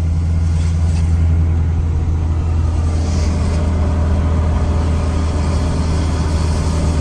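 Modified diesel pickup truck's engine running loud under way, a steady deep drone with no clear rise or fall in pitch.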